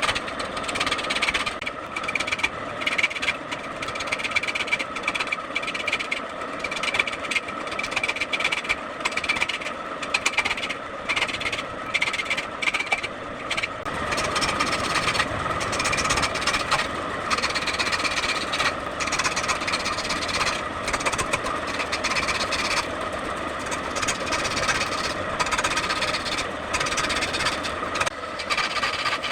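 Wood lathe running with a steady whine while a turning tool cuts the spinning wood, the cutting noise breaking off and starting again many times.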